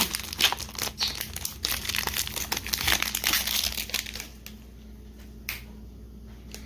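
Foil booster pack wrapper crinkling as it is handled and opened, for about four seconds, then quieter, with one sharp tap near the end.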